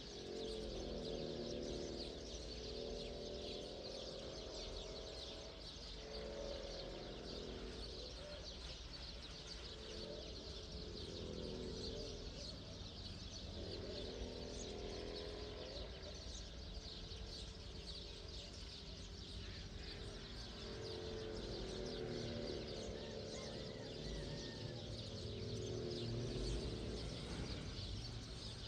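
Dense, continuous chirping of many small birds, like a dawn chorus. A low, soft tone of several notes swells in and fades every several seconds underneath.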